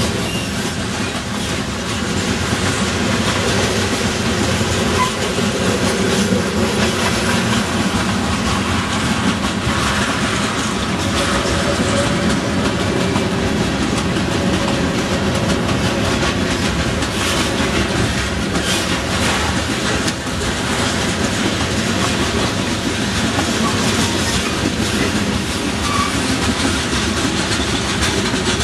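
Freight train of covered hopper cars and tank cars rolling past at speed: a steady rumble of steel wheels on rail, with a quick run of clicks as the wheels cross the rail joints.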